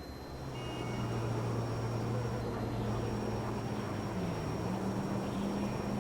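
A Metra commuter train coming into the station: a steady low engine drone that swells over the first second and then holds.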